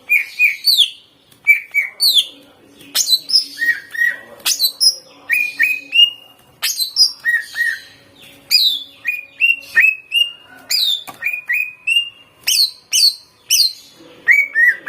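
Green leafbird (cucak ijo) singing a rapid, varied song of loud slurred whistles and sharp chirps in quick phrases, with mimicked notes of other birds woven in.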